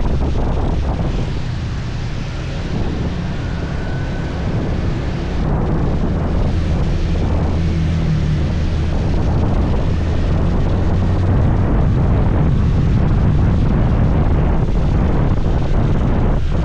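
Wind rushing and buffeting over the microphone on a moving scooter, with a steady low engine and road drone underneath.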